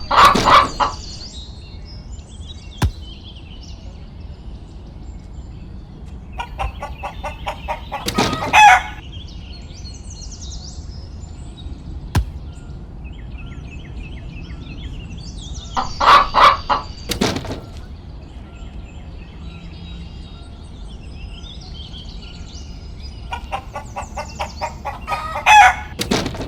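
Chicken calling four times, about eight seconds apart, each call a run of short clucks building to a loud, drawn-out squawk. Faint bird chirps between the calls.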